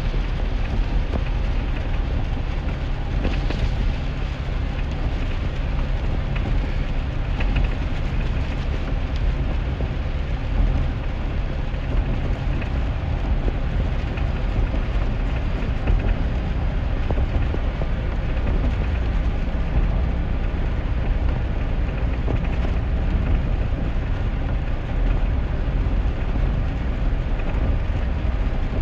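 Steady low drone of a 2001 GMC Sierra pickup driving in the rain, heard from inside the cab: engine and tyre rumble under an even hiss of rain and wet road.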